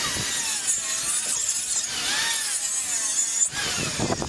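Electric power saw cutting through a wooden board, a loud hissing cut with a whine that dips and rises as the blade bites. It cuts off suddenly about three and a half seconds in, and a few knocks follow.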